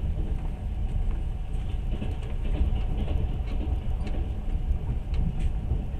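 Passenger train running along the track, heard from inside the carriage: a steady low rumble with scattered faint clicks.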